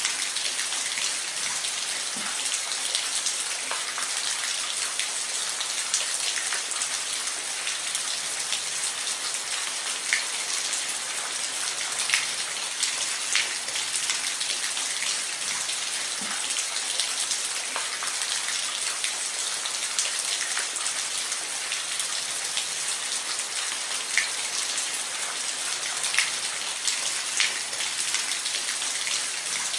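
Steady rain falling on a roof, an even hiss with scattered sharper drop ticks.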